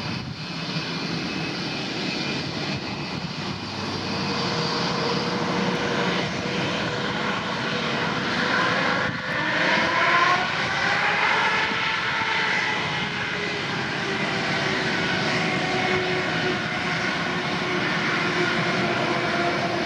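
Boeing 787-9's twin turbofan engines at takeoff power: a steady jet noise with whining tones that grows loudest about halfway through as the airliner passes, then the tones fall in pitch.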